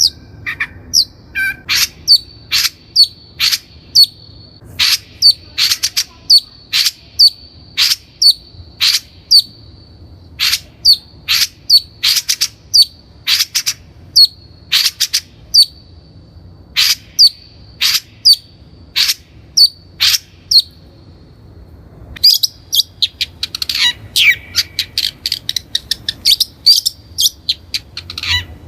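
Long-tailed shrike calling: a long run of sharp, clipped notes, about two a second. Over the last six seconds or so it breaks into faster, more varied chattering.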